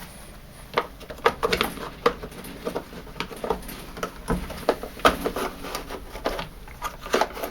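Irregular clicks and knocks of plastic parts being handled and taken off a Bosch tumble dryer during disassembly.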